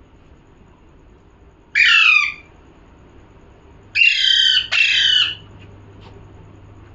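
Pet parrot giving three loud, harsh squawks: one about two seconds in, then two in quick succession a couple of seconds later.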